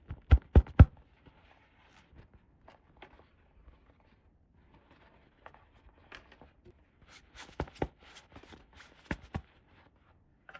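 Small plastic toy pieces being handled and set down: three quick knocks just after the start, faint rustling, then a run of light clicks and taps in the second half.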